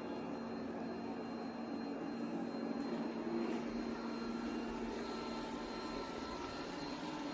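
ECOVACS Deebot T50 Omni robot vacuum running steadily: a constant low motor hum with a faint high whine over it, and a second thin tone joining a few seconds in.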